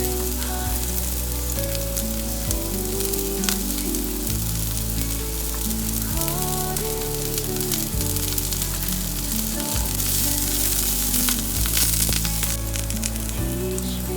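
Food frying in hot oil in a pan, a steady sizzle that grows louder about ten seconds in, with background music playing over it.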